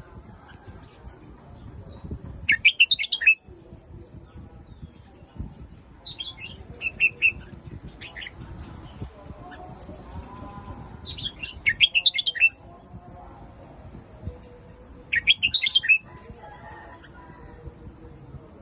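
Red-whiskered bulbul singing short phrases of quick whistled notes, four phrases a few seconds apart.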